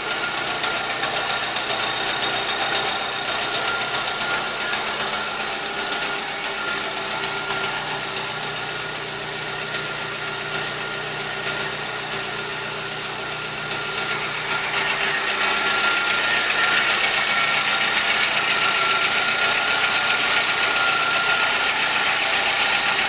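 A 2001 VW Gol's four-cylinder 1.0 8-valve AT engine idling with a rapid ticking 'tchac, tchac' noise, which the mechanic takes for a leaking metal exhaust manifold gasket. The engine gets somewhat louder about fourteen seconds in.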